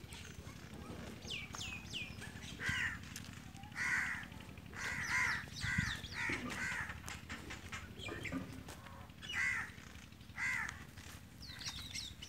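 Birds calling: about a dozen short calls, several in quick succession in the middle, with brief high chirps near the start and near the end, over a steady low hum.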